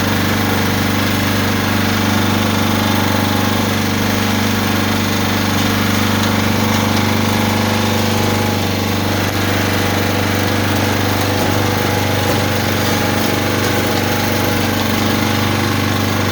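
Gilson Brothers snowblower's small engine running smoothly at a steady, even speed.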